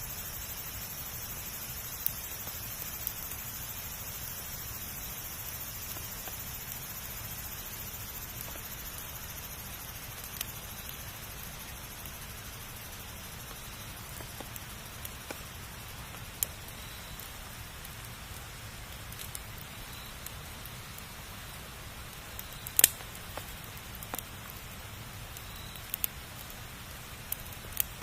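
Campfire burning: a steady hiss with scattered sharp pops and crackles from the wood. The loudest is a quick double pop near the end.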